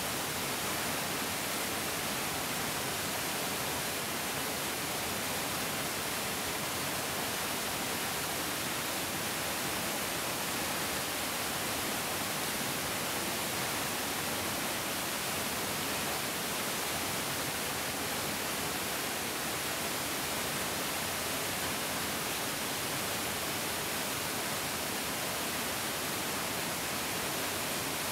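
A mountain stream rushing steadily, an even hiss of flowing water with no breaks or separate events.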